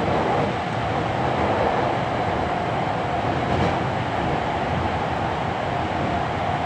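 Hankyu 7300-series electric commuter train running at a steady speed, heard from inside a passenger car: a continuous rumble of wheels on rail with a steady whine held at one pitch.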